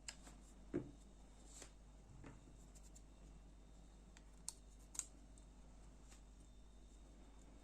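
Sparse small clicks and taps from a folding knife's parts and a small screwdriver being handled during disassembly. The loudest is a duller knock just under a second in; two sharper clicks come a little after four seconds and at about five seconds.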